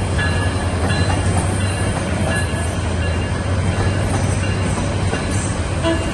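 A train running: a steady, loud rumble of wheels and track with a constant low hum.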